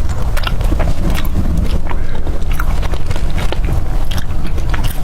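Close-miked biting and chewing of a grilled chicken thigh burger, with many short clicks from the mouth scattered irregularly throughout.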